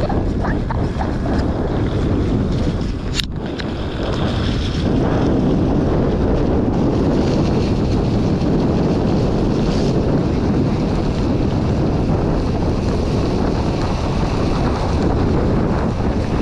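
Steady wind buffeting the microphone while riding, with one sharp click about three seconds in.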